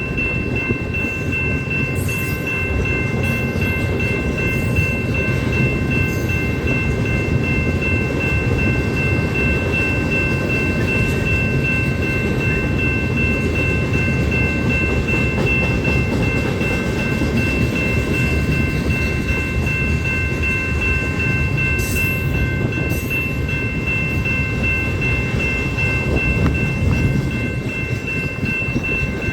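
Coal train's freight cars rolling steadily past with a continuous low rumble of wheels on rail, and a steady high-pitched ringing tone held over it.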